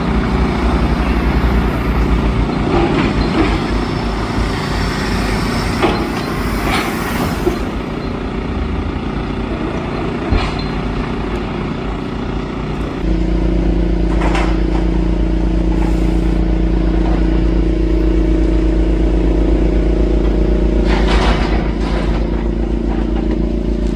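Demolition excavator's diesel engine running, with a few scattered knocks and clatters of debris. About halfway through, the engine becomes louder and steadier.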